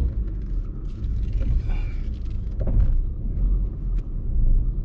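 Low rumble of a car moving slowly, heard from inside the cabin while it is manoeuvred into a parking spot.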